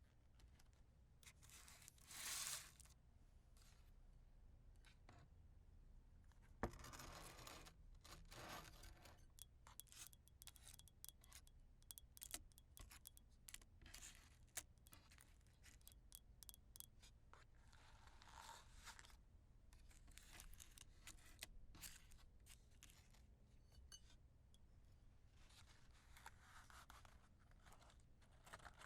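Wooden matches being struck and flaring: several short, quiet scraping rasps, one beginning with a sharp click, with many small ticks and crackles between them.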